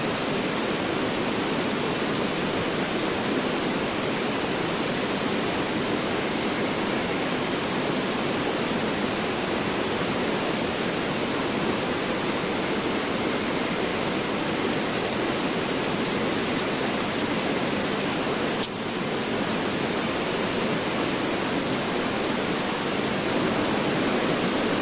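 Mountain river or stream rushing steadily, an even wash of water noise, with one brief click about three-quarters of the way through.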